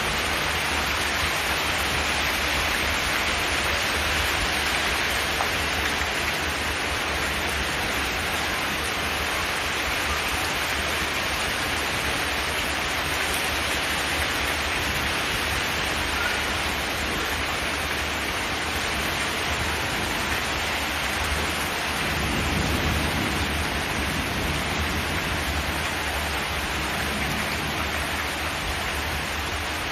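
Steady rain drumming on a zinc metal roof, an even wash of noise with a low rumble underneath that swells slightly about two-thirds of the way through.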